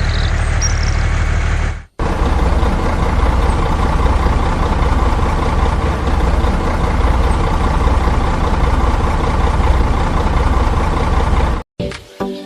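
Engine running steadily, broken by a sharp cut about two seconds in, then cutting off near the end.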